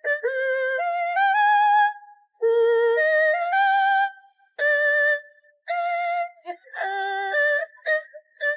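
High-pitched singing in short phrases, each holding steady notes and stepping between pitches, with brief breaks between phrases.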